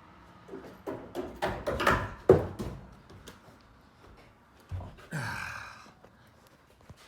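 A quick run of knocks and thuds over about two seconds, then a single loud breathy exhale a couple of seconds later.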